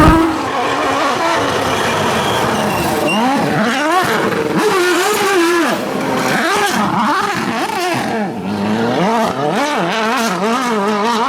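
Rally car engine revving hard on a stage, its pitch climbing and dropping again and again as the driver shifts gears and lifts off. A sharp bang marks the very start.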